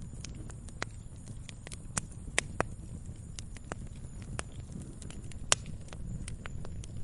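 Wood fire crackling: irregular sharp pops and snaps over a steady low rumble of burning, with a few louder pops about two and a half and five and a half seconds in.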